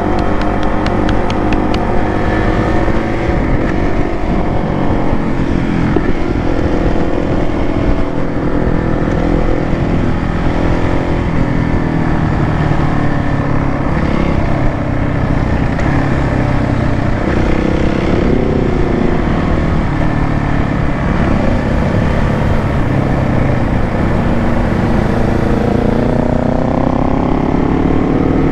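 Motorcycle engine running under way, heard from on the bike. Its pitch rises over the last few seconds as it speeds up.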